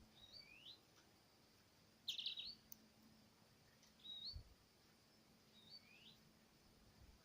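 Faint small songbird calls: short chirps that step or swoop upward, repeating about every second and a half, with a louder quick run of four notes about two seconds in. A low thud comes about four seconds in.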